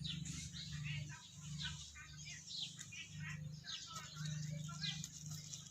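Birds chirping busily: many short, high chirps that fall in pitch, several a second, overlapping one another, over a low hum that comes and goes.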